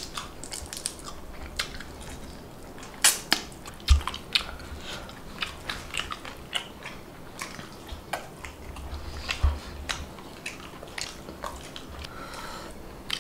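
Chewing and eating by hand: chicken chaap and biryani being chewed and handled, heard as irregular short wet clicks, the sharpest about three and four seconds in.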